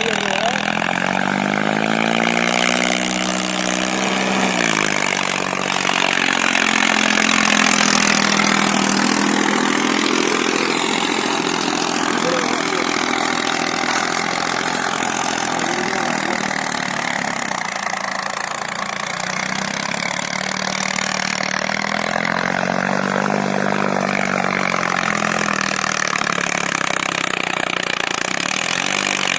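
Diesel tractor engine running hard under load, its pitch rising and falling in slow swells several times, over a broad noisy wash.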